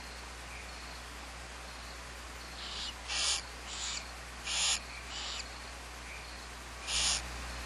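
Barn owl giving short raspy hissing calls, about six of them at uneven intervals, under a steady low electrical hum.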